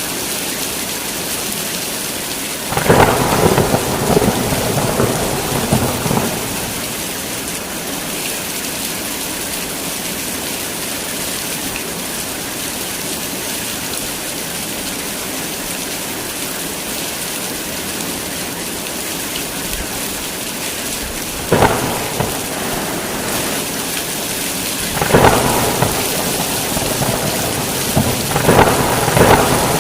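Heavy rain falling steadily, with sudden thunder cracks that roll away: one about three seconds in, then three more close together in the last third.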